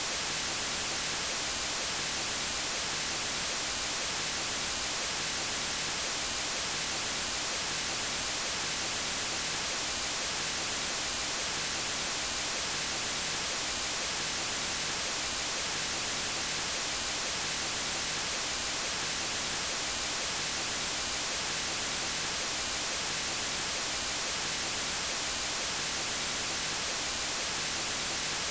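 Steady, unchanging electronic white noise, a constant hiss across all pitches, brightest in the highs.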